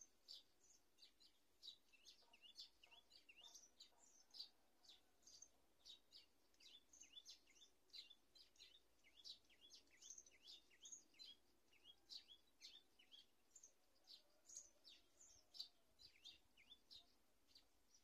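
Faint, high-pitched bird chirps, many short notes a second, some sliding downward in pitch.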